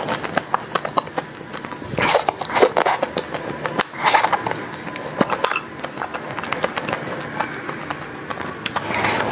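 Chewing and crunching of a chocolate-coated ice cream bar, with teeth scraping ice cream off the wooden stick. A steady run of crackly clicks, with louder crunches about two and four seconds in.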